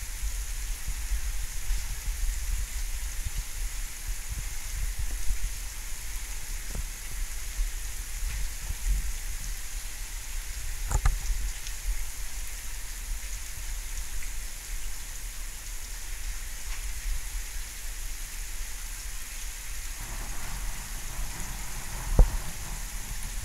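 Steady rain falling in a thunderstorm, with a few sharp taps or knocks, the loudest near the end.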